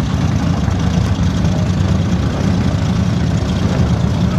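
Drag-racing engines running loud and steady: a deep, even rumble with no clear rise in pitch.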